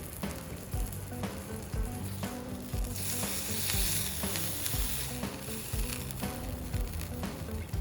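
Meat sizzling on a hot iron steak plate, the hiss swelling loud about three seconds in and easing off a few seconds later. Background music with a steady beat plays underneath.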